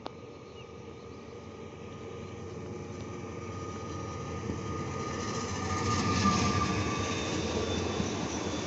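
Electric multiple unit approaching and running past along the platform: the rumble of wheels on rails grows steadily louder, reaching its loudest about six seconds in as the train draws alongside, with a faint steady whine over it.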